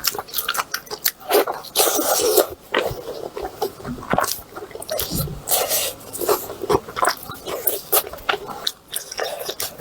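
A person chewing and eating, with wet smacking and crunching mouth sounds coming as quick, irregular clicks.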